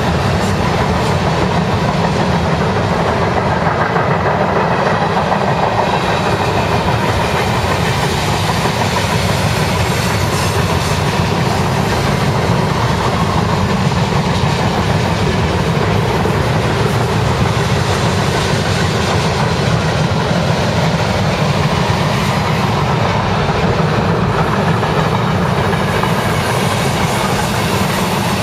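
Cars of a BNSF mixed freight train (covered hoppers, tank cars, boxcars) rolling steadily past on a curve, steel wheels running on the rails in a loud, even noise.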